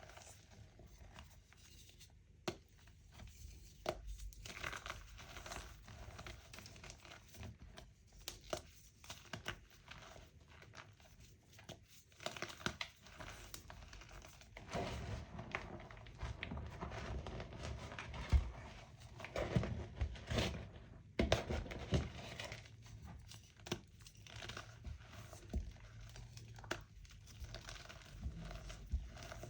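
Blocks of pressed gym chalk being crushed and crumbled: a continuous run of dry crunches, crackles and snaps, growing busier and louder about halfway through.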